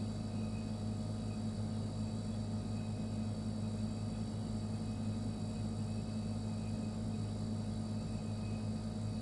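Refrigerator running with a steady low hum, unchanging throughout, with a faint high tone coming and going.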